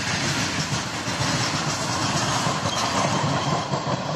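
Freight train of covered boxcar wagons rolling past close by, the wheels clattering steadily over the rail joints.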